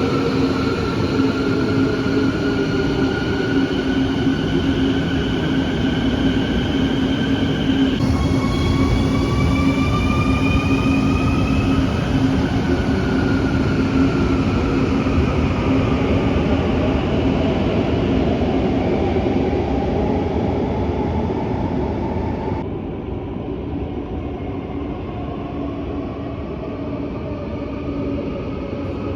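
Quito Metro electric train running, its motor whine gliding up in pitch as it gathers speed and then down as it slows, over a steady rumble and hum. About three-quarters of the way in, the sound abruptly turns duller and a little quieter.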